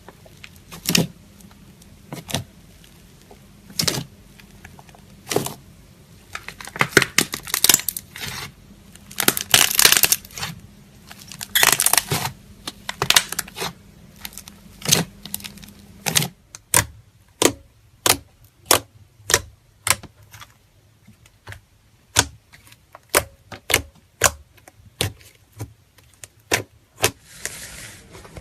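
Slime being pressed and poked, making sharp clicking pops. The clicks come in irregular clusters at first, then as a steady run of single clicks about one and a half a second from about halfway.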